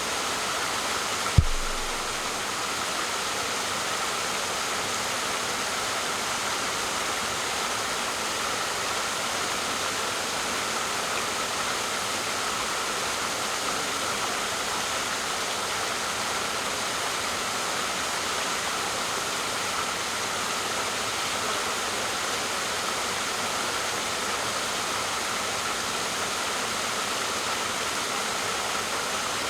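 Waterfall rushing steadily, an even hiss of falling water. About a second and a half in there is a single sharp thump, the loudest moment.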